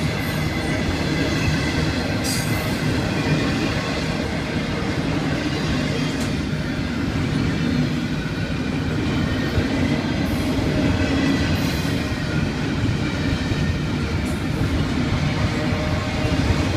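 Florida East Coast Railway intermodal freight train rolling past: a steady rumble of steel wheels on rail with a few sharp clicks.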